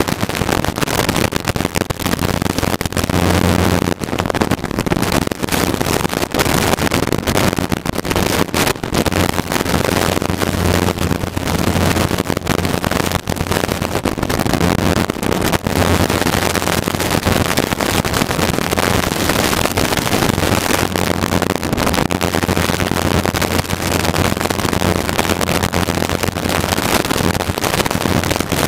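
Piston-engined training helicopter's engine and main rotor running steadily, heard inside the cabin as a loud constant drone with a low hum.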